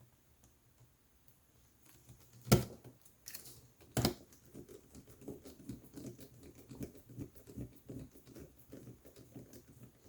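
Handling of small laptop parts and screws: two sharp clicks about two and a half and four seconds in, then a long run of light, rapid tapping and rattling.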